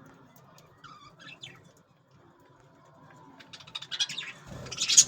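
Budgerigars chirping: a few short chirps about a second in, then a fast run of chirps and clicks, ending in a loud burst of noise near the end.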